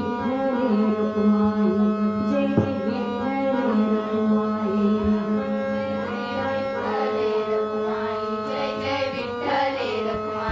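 Marathi devotional bhajan music: long held melody notes over tabla strokes, with some singing.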